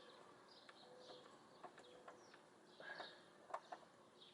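Faint birds chirping, a short high falling chirp repeated every second or so, with a few light clicks.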